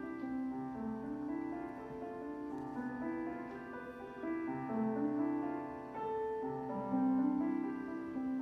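Piano playing slow, sustained chords, one chord flowing into the next every second or so, heard through the sound system while the keys channel is brought up.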